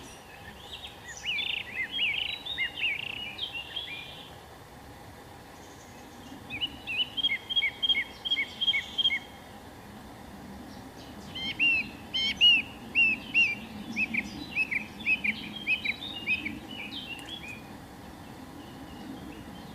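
A songbird singing: three phrases of quick chirping notes, about a second in, near the middle, and a longer one in the second half, over faint outdoor background noise.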